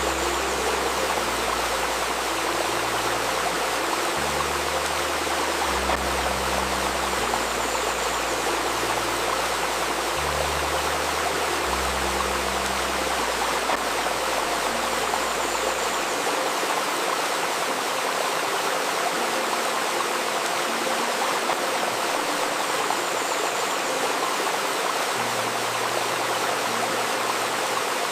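River water babbling steadily over stones. Soft, low sustained tones shift pitch every second or two underneath it, drop out about halfway through and return near the end.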